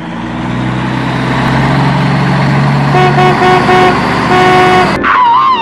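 Motor vehicle engine running steadily, then a horn honking: three short toots and one longer blast. Near the end a warbling high-pitched tone starts.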